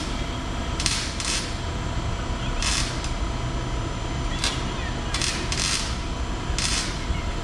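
Ratchet wrench being worked in short strokes, giving brief bursts of clicking at irregular intervals over a steady low rumble.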